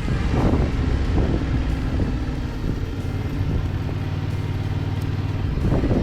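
Yamaha MT-07's parallel-twin engine running under way, its pitch changing over the first couple of seconds, then holding a steady note from about three seconds in until shortly before the end.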